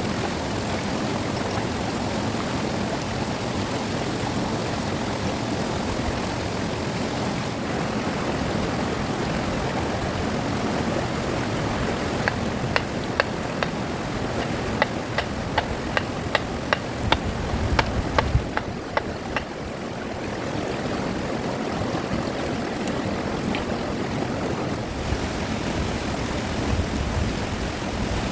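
Fast river water rushing steadily. Partway through, a run of about fifteen sharp knocks comes at roughly two a second for several seconds, then stops.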